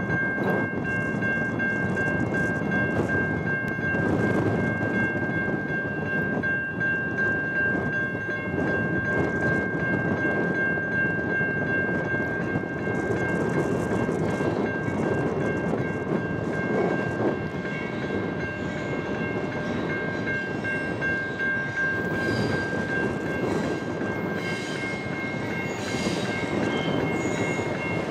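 Canadian National freight train led by GE diesel locomotives approaching: a steady low rumble with a steady high ringing tone held throughout, and sharper ticking and rattling in the last few seconds as the train comes close.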